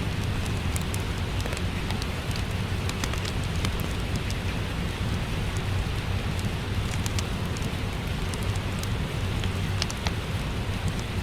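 Steady rain pattering, mixed with the crackle of a wood fire in a fireplace that comes through as frequent short, sharp pops.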